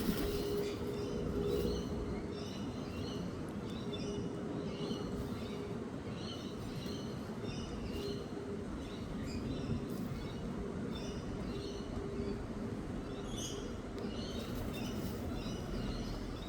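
Wild birds chirping: many short, high calls repeating throughout over a faint, steady low hum.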